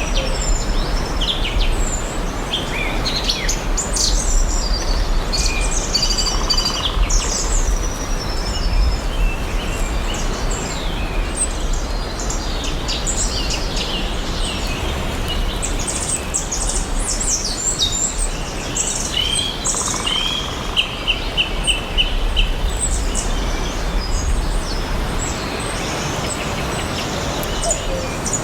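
Several songbirds chirping and singing together over a steady background hiss of forest ambience, with a short run of evenly repeated notes a little past the middle.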